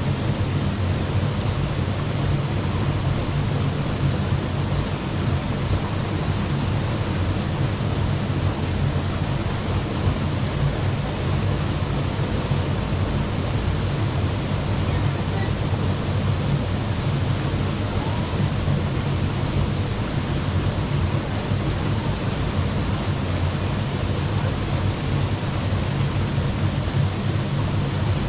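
Waterfall pouring, a steady rush of falling water that stays even throughout.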